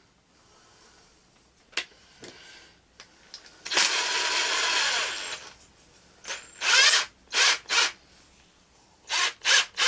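Power drill running in one burst of about two seconds, then in several short trigger pulses, driving a bolt into the steel so that it cuts its own threads.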